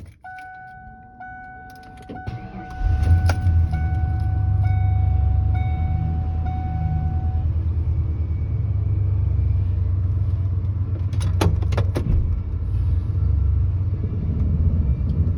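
1996 Ford F-150 pickup cold start: a dashboard warning chime dings about once a second, the starter cranks briefly about two seconds in, and the engine catches about three seconds in and settles into a steady cold idle. The chime stops after about seven seconds; a few sharp clicks, like keys jangling, come around eleven seconds in.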